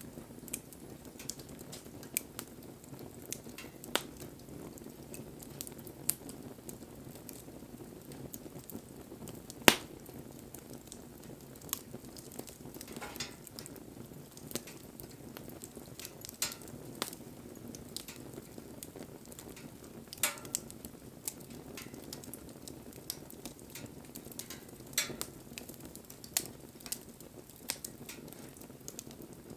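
Wood fire burning: a steady low rush of flames with irregular crackles and sharp pops of burning wood, one much louder pop about ten seconds in.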